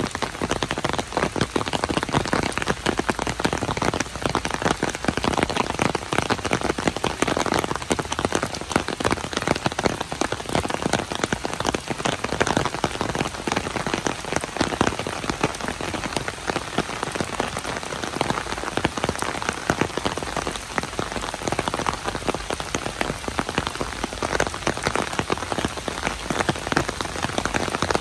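Steady rain falling: a continuous hiss dense with the hits of individual drops, even in level throughout.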